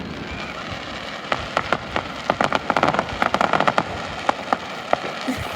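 Firework crackle: a burst shell's crackling stars popping in a rapid, dense run of sharp snaps, thickest in the middle and thinning out near the end, over the fading rumble of the burst.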